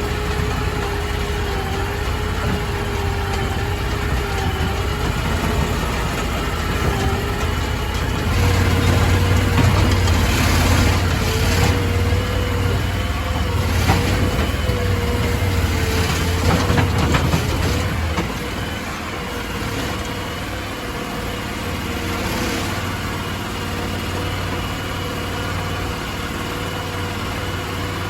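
Crawfish boat's engine running steadily. It gets louder about a third of the way in, then drops back to a lower, even level about two-thirds of the way through.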